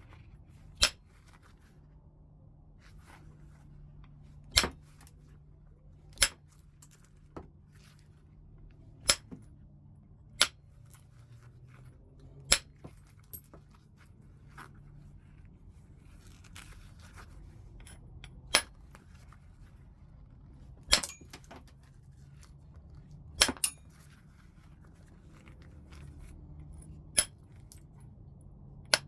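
Flintknapping heat-treated Burlington chert: sharp, separate clinks of flakes being struck off the stone, about ten in all at irregular gaps of one to four seconds, some coming as quick doubles. A faint low steady hum runs underneath.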